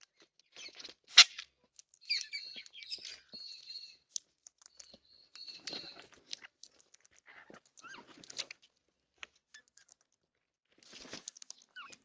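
Backyard birds calling in short chirps and held whistled notes. There is one sharp, loud knock about a second in, and short rustling bursts further on.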